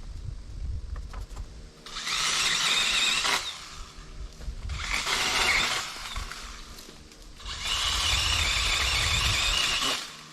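DeWalt 20V brushless cordless pole saw cutting Osage orange branches in three bursts, its chain running in the wood with a high, squealing whine, with quieter pauses between cuts.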